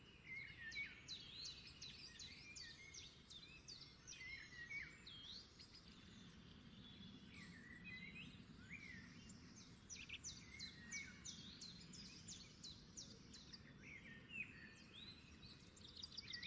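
Faint birdsong: small birds chirping in quick runs of high, sharp notes that come and go, over low background noise.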